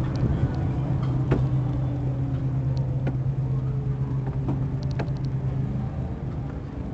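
Scooter carrying the camera, running with a steady low hum that fades near the end, with scattered clicks and rattles.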